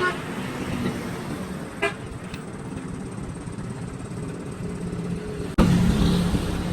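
Engine and traffic noise with short vehicle horn toots near the start and just before two seconds in; about a second before the end the sound suddenly jumps louder after a sharp click.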